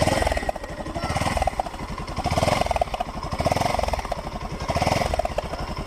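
Bajaj Pulsar NS160 single-cylinder engine running through a modified exhaust, a fast train of popping exhaust pulses that swells louder and drops back several times as the throttle is blipped.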